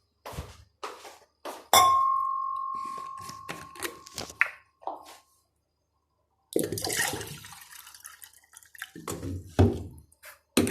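Kitchen dishes and metal utensils being handled, clinking and knocking; about two seconds in, one utensil is struck hard and rings with a single tone that fades over about three seconds. Later comes a short rush of noise and more knocks.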